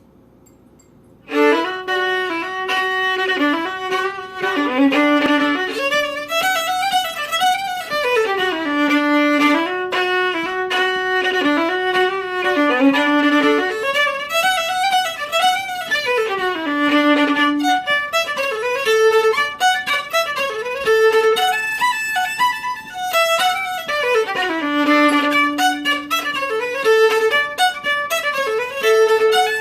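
Solo fiddle playing a tune in quick running notes, starting about a second in.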